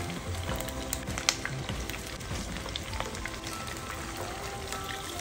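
Mashed potato cakes sizzling and crackling in hot frying oil as they are turned with a silicone spatula, with a sharp click just over a second in, under background music.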